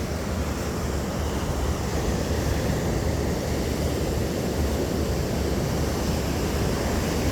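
Wind buffeting the phone's microphone in a steady low rumble, over the wash of surf breaking on the beach.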